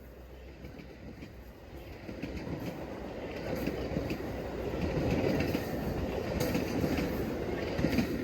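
Metra commuter train rolling by, its steel wheels rumbling and clicking over the rail joints, growing louder over the first five seconds and staying loud.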